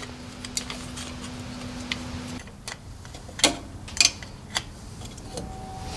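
Sharp small clicks and taps, several in a row at roughly even spacing, from metal parts of a fuel pump assembly being handled and fitted together. A steady low hum in the background cuts off a little before halfway.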